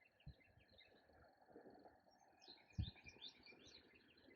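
Faint songbird chirping: a few short high notes, then a quick run of chirps about halfway through, over a faint steady high-pitched tone. Two soft low thumps.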